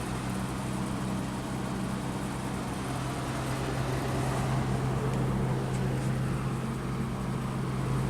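Amana hotel-room HVAC unit running on fan only, with the compressor not yet started: a steady rush of blown air over a constant low hum.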